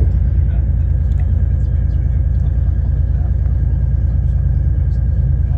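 Steady low rumble and engine drone of a passenger train, heard from inside the carriage as it runs slowly into the station platform.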